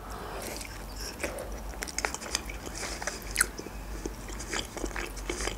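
A person biting into and chewing a boiled Georgian khinkali dumpling, with many small wet mouth clicks and smacks.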